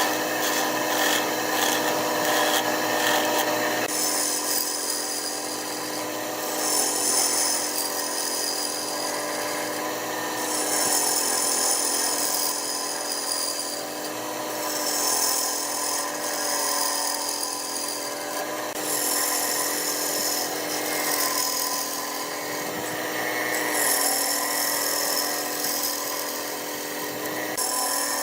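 Wood lathe running with a steady motor whine while a cutting tool scrapes the spinning wood in repeated passes a few seconds long. In the first few seconds a rapid, even stroking is heard instead.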